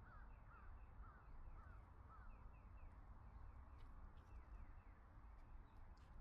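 Faint woodland ambience: a bird calls a run of five short slurred notes, about two a second, in the first couple of seconds. A steady fast series of high chirps and a low rumble continue underneath.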